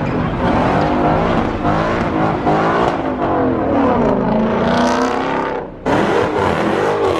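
A car engine revving hard, its pitch sweeping down and back up again, with a brief drop-off near the end before it picks up again.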